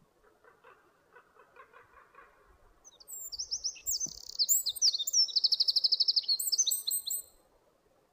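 A small songbird singing one high, quick song about four seconds long. It begins about three seconds in with a run of fast sweeping notes and ends in a rapid, even trill. Fainter soft chattering comes before it.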